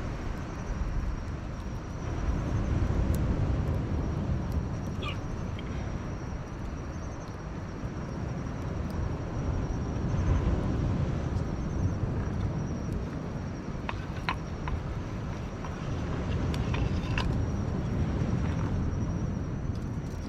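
Outdoor low rumbling noise that slowly swells and fades, with a few sharp crackles and a thin, steady high-pitched trill in the background.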